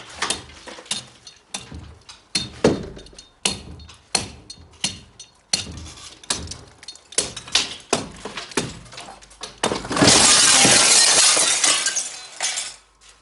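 A long string of sharp, irregular impacts, then a loud crash lasting about two and a half seconds near the end.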